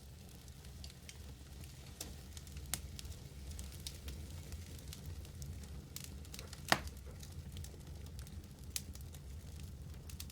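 Wood fire burning in a fireplace: a steady low rumble with scattered crackles and small pops, and one sharp, louder pop about two-thirds of the way through.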